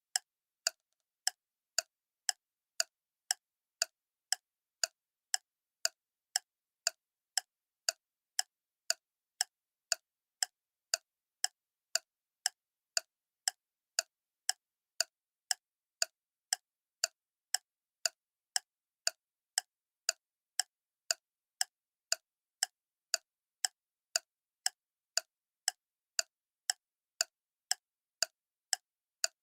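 Clock ticking steadily, about two sharp ticks a second, all evenly spaced and equally loud.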